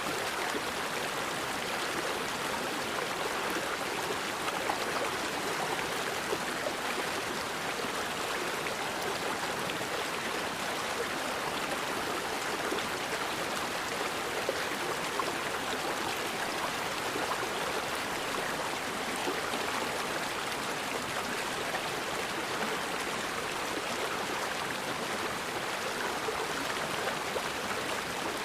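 Forest river flowing, a steady rushing of water over stones with no break or change.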